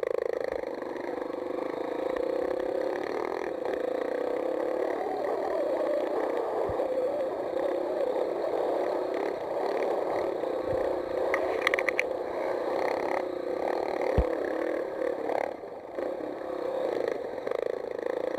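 Mini motocross bike engine running on the track, its pitch wavering up and down with the throttle, with a few dull knocks.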